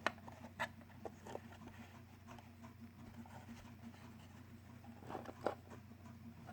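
Light plastic clicks and taps from a 3D-printed card box being handled: a few near the start and a louder cluster near the end, over a steady low hum.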